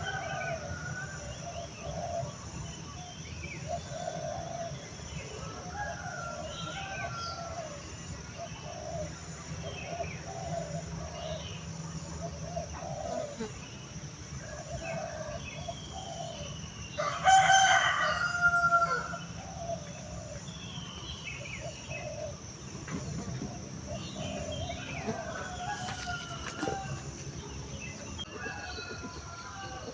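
Chickens clucking in a steady string of short calls, with one loud rooster crow of about two seconds a little past halfway. Small birds chirp here and there over a steady high-pitched drone.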